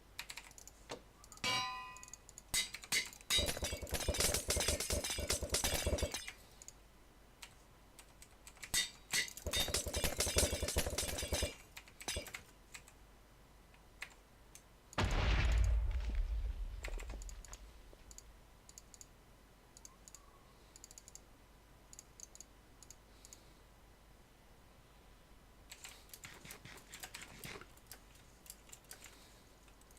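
Two bursts of rapid clicking, each two to three seconds long, then a single heavy thump about halfway through that dies away over a couple of seconds, followed by scattered faint clicks.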